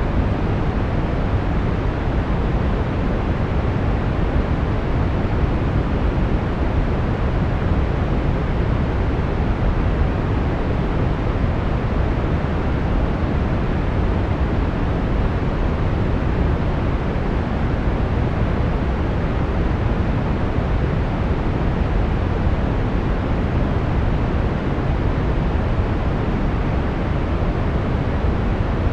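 Brown noise: a steady, even rumbling hiss weighted toward the low end, with no events or changes.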